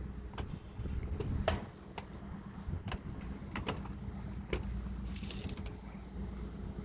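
Water dripping and trickling during a truck wash, with scattered ticks of drops over a steady low hum and a short hiss of spray about five seconds in.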